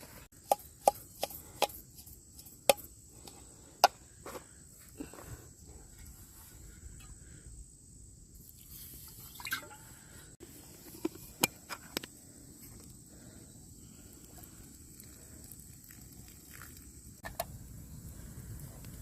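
Irregular sharp clicks and knocks, most of them in the first four seconds and a few more later, over a faint steady hiss.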